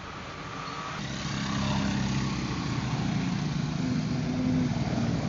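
A vehicle engine running with a steady low drone that grows steadily louder, starting abruptly about a second in.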